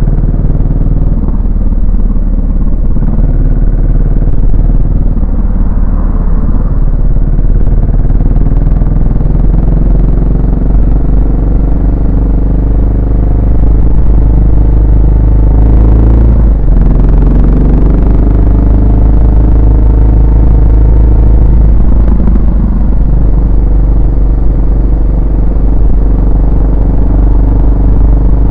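Yamaha SR400's single-cylinder four-stroke engine and exhaust under way, pulling up in pitch as the bike accelerates, with a sharp drop at a gear change about sixteen seconds in, then climbing again and levelling off as it cruises.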